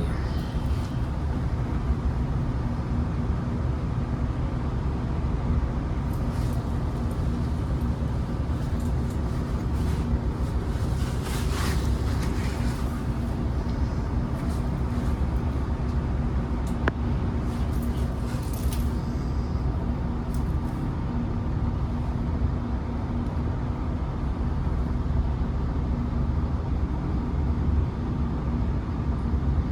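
Great Western Railway Turbo diesel multiple unit running with a steady low engine drone. A few short hissing bursts come through around the middle.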